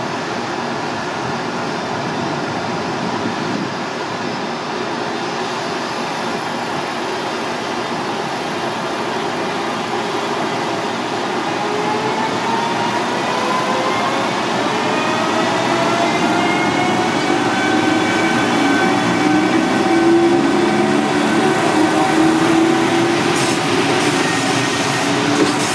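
JR Freight EF510 electric locomotive starting a container train: a steady running noise, then from about half-way through the whine of its inverter-driven traction motors rises in pitch and levels off as it gathers speed. The loaded container wagons then roll past, with a few wheel clicks near the end.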